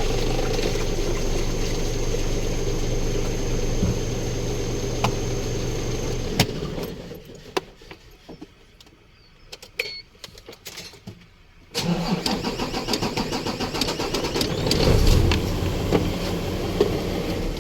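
Isuzu 6WF1 common-rail diesel truck engine running, then going quiet about six seconds in. About twelve seconds in it comes back with a sudden start and a pulsing, rhythmic sound, typical of a starter cranking the engine on a truck that is hard to start.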